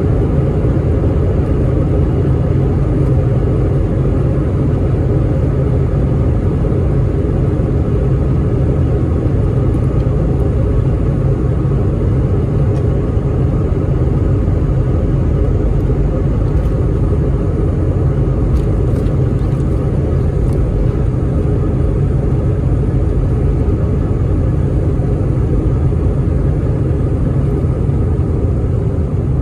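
Airbus A319 jet engine and airflow rumble heard inside the cabin: a loud, steady low roar that holds an even level.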